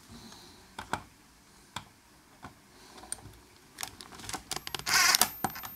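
Scattered small clicks and taps of tools and parts being handled on a radio chassis, with a louder scraping rasp about five seconds in, as a stuck part is worked at without coming free.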